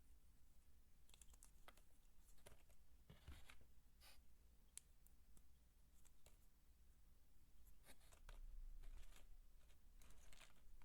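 Faint, scattered little clicks and crackles of dry soap being handled, over a low background rumble.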